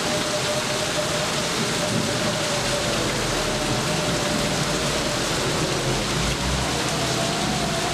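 Steady heavy rain falling, an even hiss, with a low rumble coming in a few seconds in and fading near the end.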